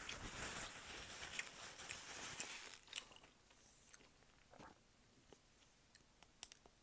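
Chewing and crunching on a rock-hard fried hush puppy, close to the microphone. The crunching is dense for the first three seconds, then thins to a few small clicks.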